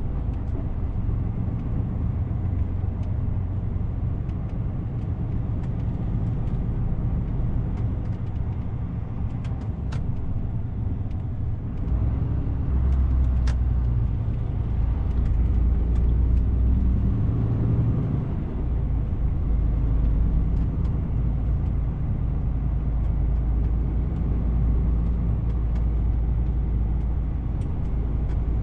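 DAF CF 450 truck driving along, its diesel engine and the road noise making a steady low rumble, with a few light clicks.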